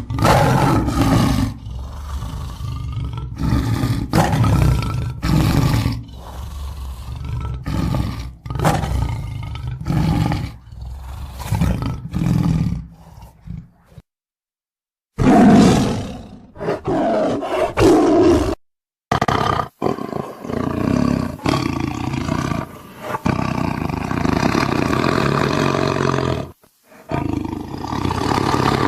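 Tiger growling and roaring in a long run of deep, rough growls, broken by two short silent gaps around the middle.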